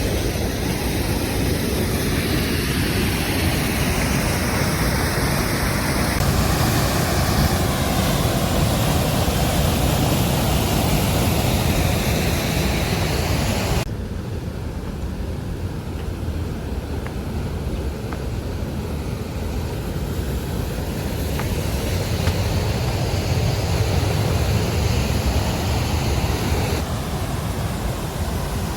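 Steady rush of flowing river water, a loud even noise with no clear tone. It changes abruptly a few times, dropping and turning duller about fourteen seconds in and brightening again near the end.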